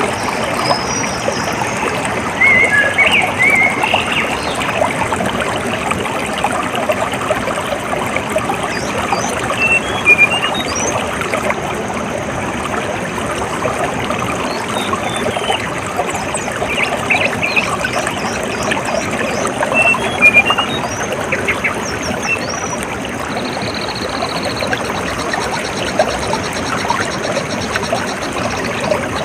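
Water trickling and splashing steadily in a small stream, with birds giving short high chirps now and then over it. A few seconds after the middle comes a brief buzzing trill.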